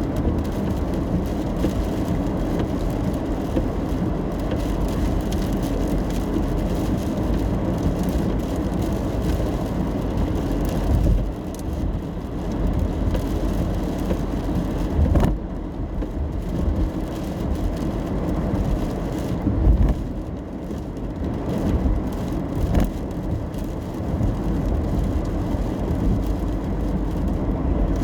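Steady road and tyre noise with engine hum, heard from inside a car's cabin while driving in the rain. Two short sharp clicks stand out, one about halfway through and another a few seconds later.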